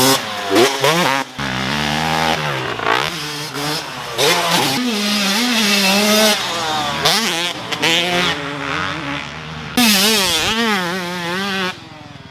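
Dirt bike engine revving hard, its pitch climbing and dropping repeatedly as the rider works the throttle and shifts. The engine note falls away near the end.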